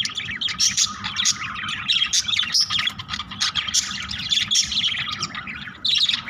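A flock of budgerigars ("Australian parrots") chattering, with many overlapping chirps and warbles running on without a break.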